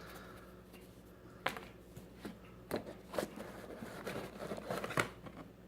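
A cardboard product box and its contents being handled and rummaged through: scattered light clicks, knocks and scrapes over soft rustling.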